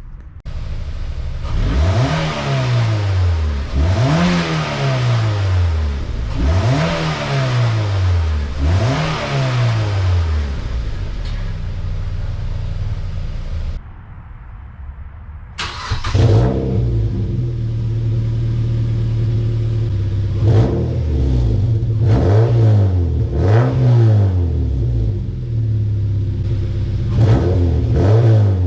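Mazda MX-5 NC's four-cylinder engine running through a newly fitted aftermarket rear muffler, revved from idle about five times, each rev rising and falling. After a short quieter lull it idles steadily, with several quick throttle blips near the end. It sounds much louder than stock, with a throaty rasp.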